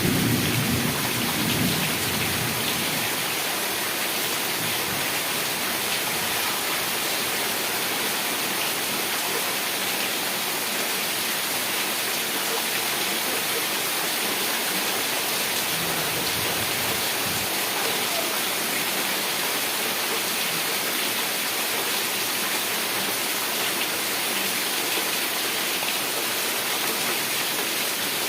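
Heavy rain falling steadily. A low rumble of thunder fades away in the first two seconds.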